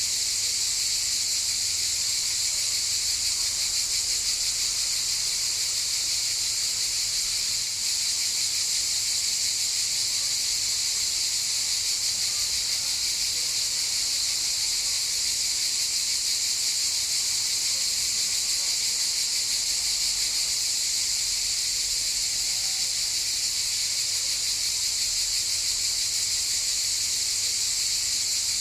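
Cicadas chorusing: a steady, high-pitched, unbroken buzz, with a brief dip in level about eight seconds in.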